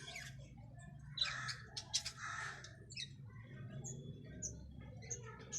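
A pet bird calling: two harsh, scratchy calls in quick succession, followed by a scatter of short, high chirps.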